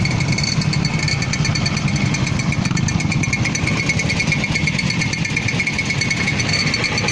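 50cc two-stroke moped engine running steadily with a fast, even, buzzing pulse.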